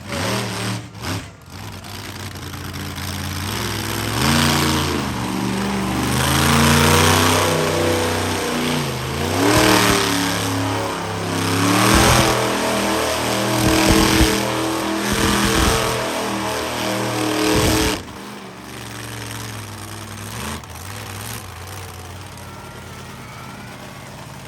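Monster truck engine revving hard again and again, its pitch sweeping up and down, with several heavy low thumps in the middle of the run. About three-quarters of the way through, the revving cuts off and drops to a quieter, steady engine sound.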